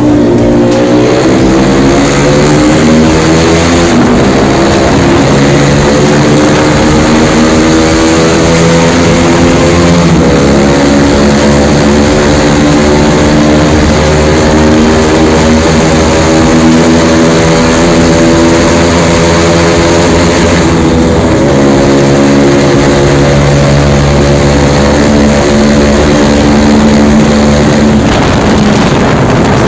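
Motorcycle engine pulling hard under way, its pitch climbing steadily and dropping back at a few gear changes.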